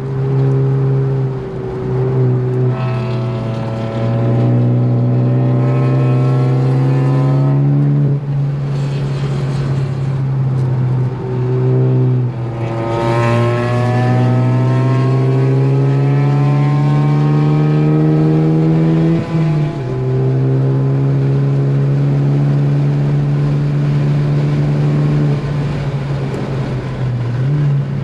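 Ford Focus ST's engine pulling hard at track pace: its pitch climbs steadily for several seconds and drops off sharply, then climbs again for about six seconds and drops, before running at a steadier pitch, with one more short drop near the end.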